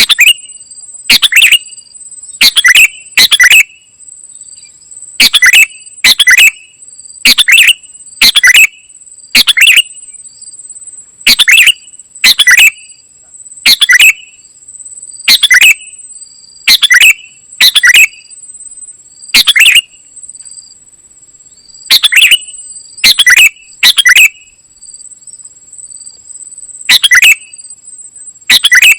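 Kutilang emas, a bulbul, calling with short loud phrases repeated about once a second, with a few longer pauses. Under the calls runs a steady high-pitched insect-like trill, with faint soft chirps.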